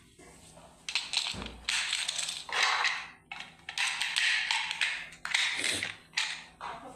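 Toy engines rattling and clattering in a string of short bursts, like hard little toys being rummaged and knocked together.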